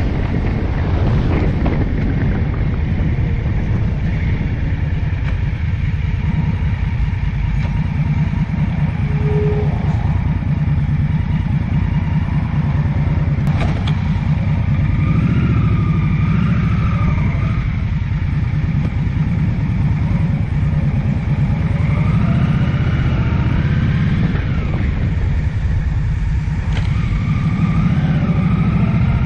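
Vehicle engine running under way, a steady low rumble. Its pitch rises and falls a few times in the second half.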